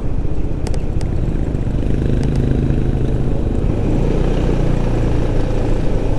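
WMoto RT3 motorcycle running on the road, heard through a microphone inside the rider's helmet as a dense low rumble of engine, wind and road noise. A few sharp clicks come in the first couple of seconds.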